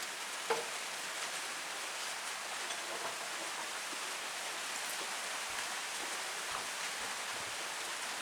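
A steady hiss with no pitch, with a faint click about half a second in.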